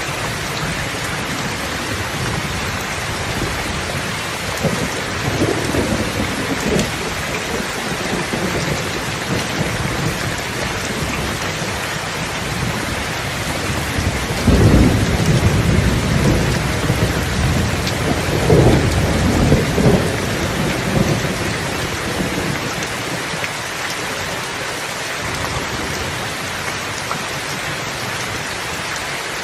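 Steady heavy rain falling on a surface, with rolling thunder rumbling, loudest in the middle for several seconds.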